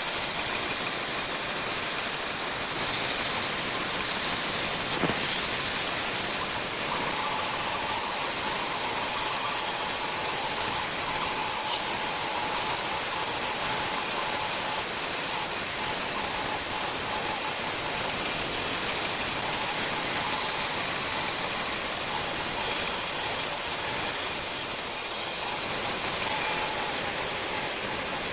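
A workshop machine running steadily with a continuous hiss, holding a constant level, with a faint steady tone joining in after the first few seconds.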